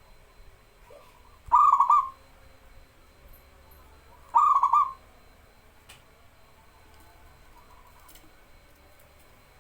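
Zebra dove (perkutut) cooing: two short trilled coo phrases about three seconds apart.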